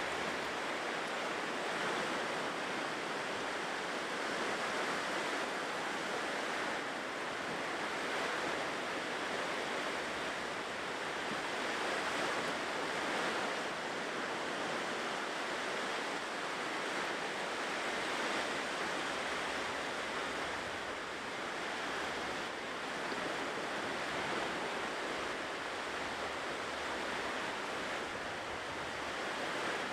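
Ocean waves washing onto a shore, a steady surf with gentle swells and ebbs every few seconds.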